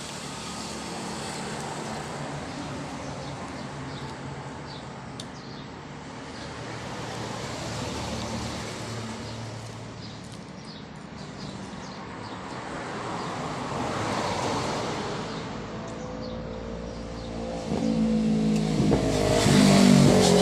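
Motor vehicles passing by, the sound swelling and fading several times. The loudest pass, with a clear engine note, comes near the end.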